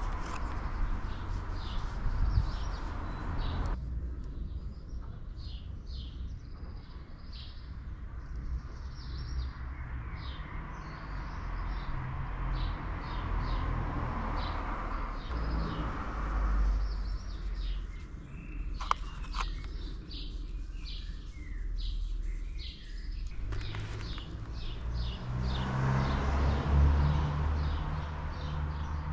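Birds chirping, short high chirps coming several times a second, over a low rumble that swells and fades. A single sharp click comes about two-thirds of the way through.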